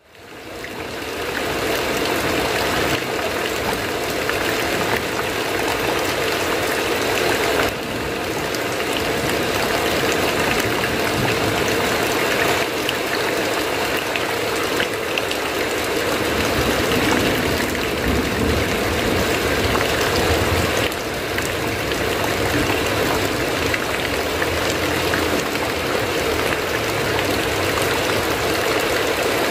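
Heavy rain falling steadily, fading in over the first second.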